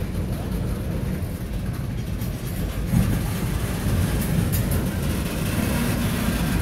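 Freight train of covered hopper cars rolling slowly past: a steady low rumble of steel wheels on the rails, with a louder knock about three seconds in.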